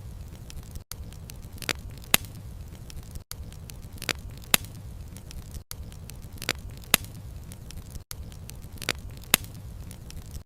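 Bonfire crackling, sharp pops of burning wood over a low steady rumble. The same short run of two or three pops repeats about every two and a half seconds, with a brief gap between repeats, like a short loop.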